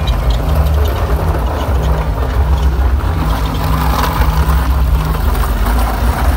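An engine idling with a steady deep rumble.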